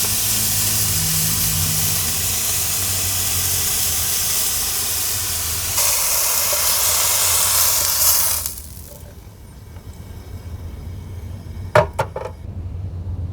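Diced chicken breast sizzling loudly in a frying pan, a steady hiss that swells about six seconds in and then cuts off abruptly a couple of seconds later as the heat is turned off. A few quick knocks near the end.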